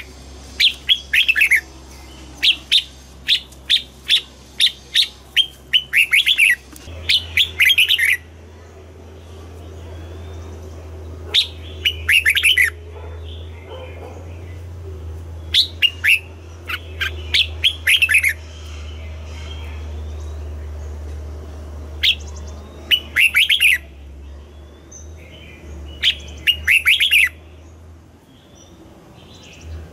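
Red-whiskered bulbul singing: loud, quick whistled phrases, packed closely together in the first several seconds, then coming in short bursts every few seconds with pauses between.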